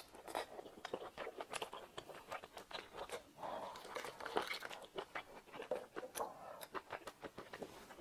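Close-miked chewing of raw oyster: a dense run of quick wet clicks and smacks from the mouth, picked up by a clip-on microphone.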